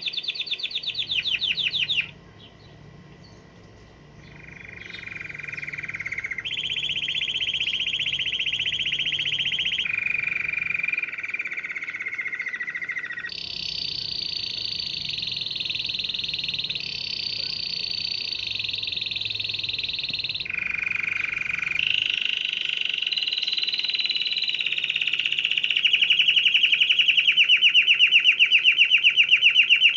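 Canary singing a long, continuous song of rapid trills, each run of fast repeated notes held at one pitch for a few seconds before switching to a higher or lower one. It drops back briefly about two seconds in, and is loudest near the end.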